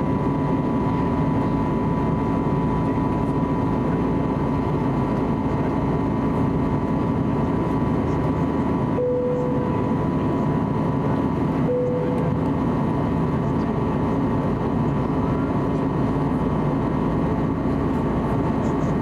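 Steady in-flight cabin noise of an Airbus A320neo, a constant hum of rushing air and its CFM LEAP-1A engines with a steady tone running through it. Two short, clear tones sound about three seconds apart around the middle.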